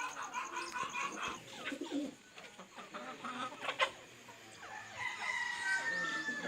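Mixed calls of kept birds: many short chirps and calls, with a fast high pulsing sound during the first second and a half. A long, slightly falling call starts about five seconds in and lasts to the end, like a crow of a domestic fowl.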